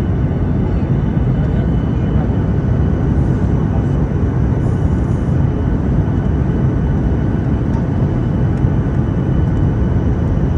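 Steady airliner cabin noise from the engines and rushing air, heaviest in the low end, with faint steady high-pitched tones above it.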